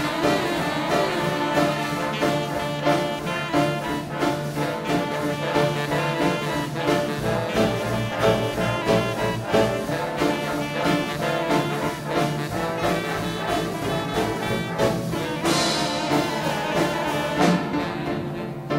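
A big band playing hot swing jazz live, with trombones and trumpets carrying the tune over a steady beat.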